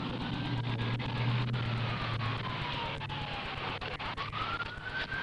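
Emergency vehicle siren wailing, its pitch sliding slowly up and down twice. Under it is a steady low engine hum that stops about two and a half seconds in, over a constant rushing background.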